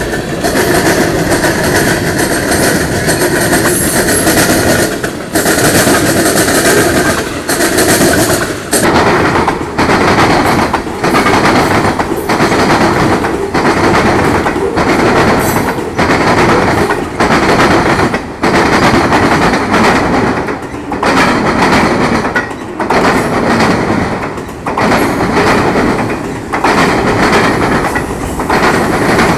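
Freight cars of a Norfolk Southern manifest train rolling past close by: tank cars, covered hoppers and autoracks. The wheels rumble steadily, with a clickety-clack over the rail joints about once a second.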